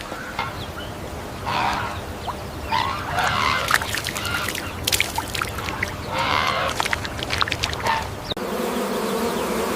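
Uneven bursts of scratchy noise with sharp clicks, then about eight seconds in an abrupt change to a bee buzzing steadily.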